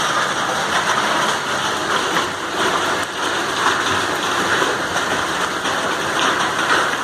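Rain pouring steadily: a dense, even hiss of drops striking surfaces, loud and unbroken.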